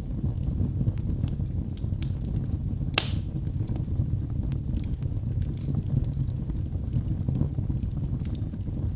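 Wood fire burning in a fireplace: a steady low rumble of flames with scattered sharp crackles and pops, the loudest pop about three seconds in.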